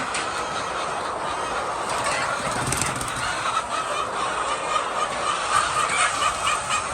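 A large flock of chickens clucking and calling together in a steady, overlapping din, growing a little busier in the second half.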